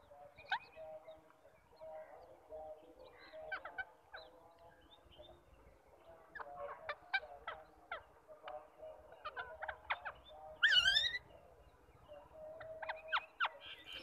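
Birds calling: scattered short chirps and chatter, with one louder call with falling glides about eleven seconds in.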